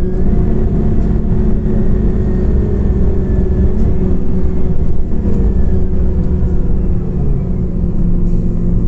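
Scania OmniCity CNG city bus under way, heard from inside the passenger cabin: a steady low drone of its natural-gas engine mixed with road rumble.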